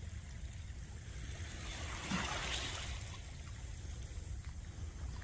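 Seawater washing: a wave swells and fades about two seconds in, over a steady low rumble.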